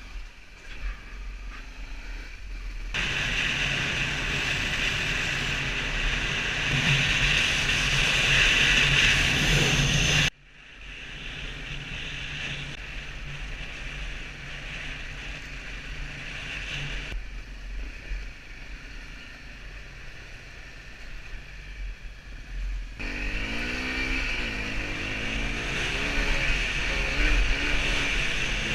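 Motorcycle engines running while riding, with heavy wind rush on the microphone, in several abruptly cut segments. Near the end the engine revs up and down.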